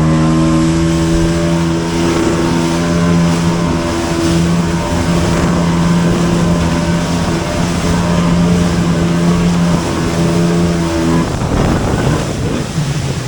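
Jet ski engine running hard at a steady pitch over the rush of water. About eleven seconds in the engine note drops away, leaving the noise of water and wind.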